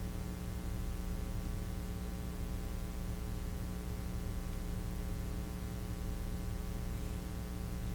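Steady low electrical hum with a stack of evenly spaced overtones and faint hiss: mains hum in the sound system.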